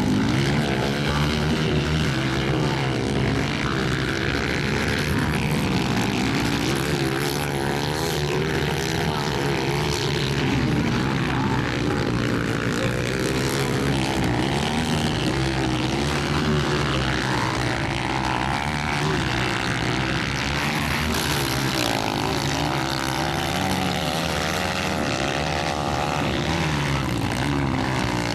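Several motocross bikes racing, their engines revving up and down over one another in a continuous buzz.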